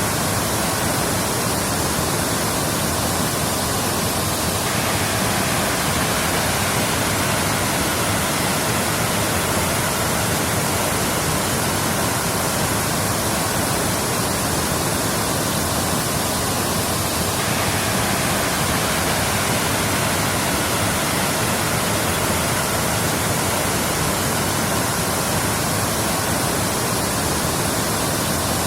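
Waterfall: a steady, even rush of falling water with no breaks. Its texture repeats about every 13 seconds, as from a looped recording.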